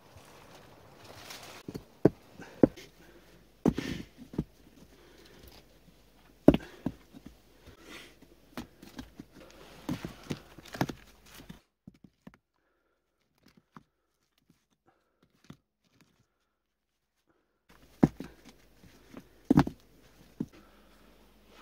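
Irregular knocks and thuds from hands-on work, a few strikes a second at times, stopping for about six seconds in the middle before a few more strikes near the end.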